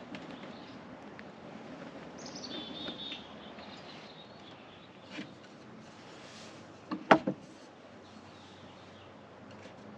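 Outdoor background noise with a bird chirping briefly about two seconds in. About seven seconds in come a few sharp knocks close together, the loudest sound.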